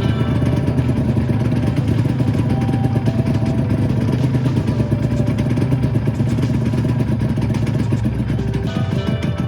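Honda NSR250R's two-stroke V-twin engine running steadily at low revs.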